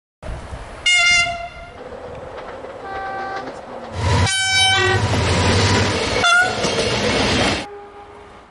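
Diesel train horns sounding in several separate blasts of different pitch, the loudest about four seconds in over the noise of a running train.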